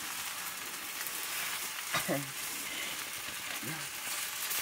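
Leafy greens sizzling in a hot iron wok with a steady hiss, as they are stirred with a wooden spatula.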